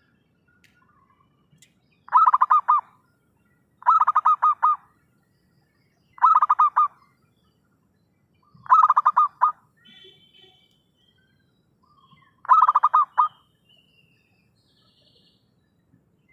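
Zebra dove (perkutut) calling: five short bursts of rapid staccato cooing notes, a couple of seconds apart, with a fainter higher chirp between two of them.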